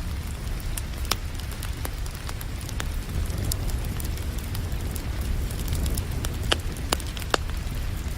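Wood fire crackling, with irregular sharp pops and snaps, over a steady hiss of rain and a constant low rumble.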